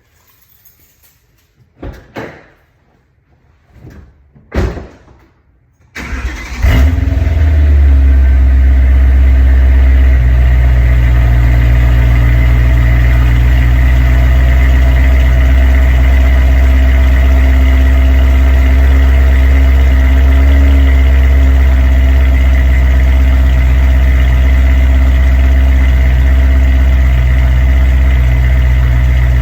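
A few short knocks, then about six seconds in the E90 M3's 4.0-litre V8 cranks briefly and catches on a cold start. It settles into a steady, loud idle through the M Performance exhaust with the aFe 300-cell resonated X-pipe.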